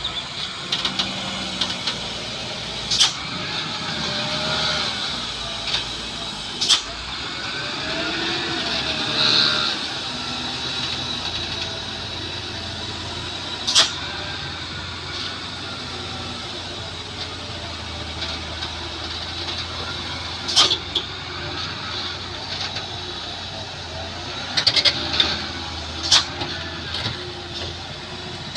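Truck engine running steadily, with a few sharp clicks now and then.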